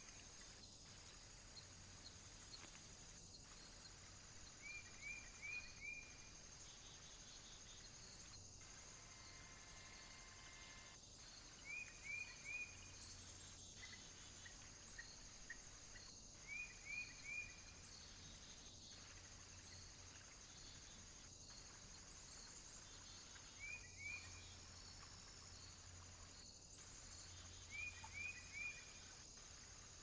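A small songbird's short, bright chirps, coming in quick runs of two to four notes every few seconds, over a faint steady high-pitched hiss.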